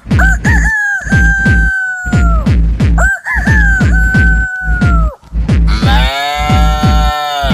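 A man imitating a rooster's crow twice, each a long call that rises and then holds and slides down, over a steady dance-music kick-drum beat. Near the end comes a longer, lower and buzzier drawn-out call.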